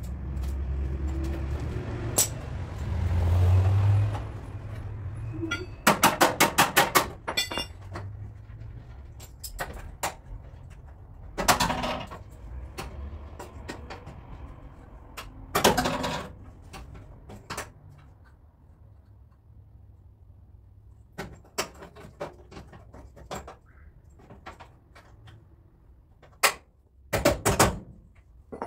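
Scattered metal knocks and clanks from car body repair work, with a fast run of about ten sharp strikes around six to seven seconds in. A low rumble runs through the first few seconds.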